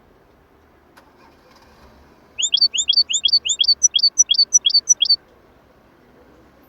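A small songbird singing a quick run of about eight repeated, rising chirps, lasting under three seconds and starting about two seconds in.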